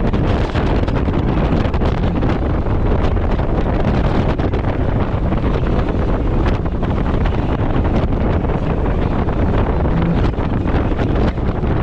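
Heavy wind noise buffeting the microphone on a fast-moving open boat, with its outboard motor running underneath.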